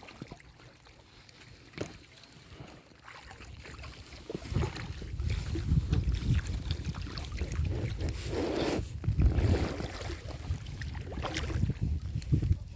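Water sounds from a small boat being paddled on a lake, with wind buffeting the microphone from about four seconds in.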